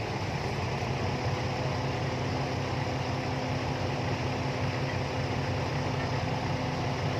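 Kubota tractor diesel engine running steadily, with a faint steady whine joining about a second in.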